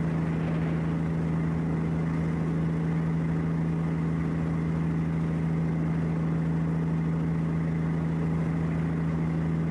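An engine running steadily at constant speed, a low drone with one strong unchanging hum and no rise or fall.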